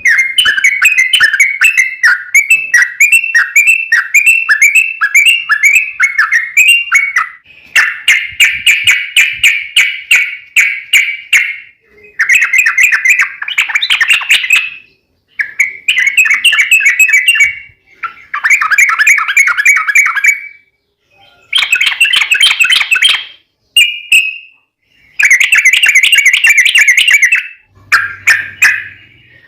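Yellow-vented bulbul (trucukan) singing long, rapid rolling phrases. It is a string of bright, fast chattering bursts with short pauses between them.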